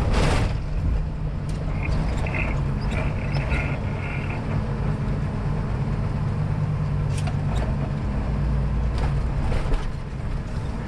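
Semi truck's diesel engine and road noise heard inside the cab while driving, a steady low drone. There is a brief burst of noise at the very start and a few light clicks later on.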